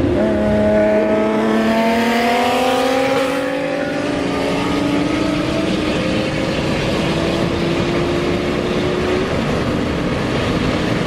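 Honda NSX's V6 engine pulling hard under load, its pitch climbing slowly and steadily for about nine seconds before levelling off, over heavy road and wind noise.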